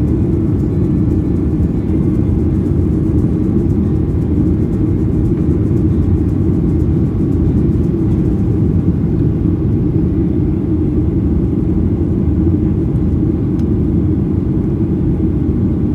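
Airliner noise during takeoff: a loud, steady low rumble of engines and rushing air, unchanging throughout.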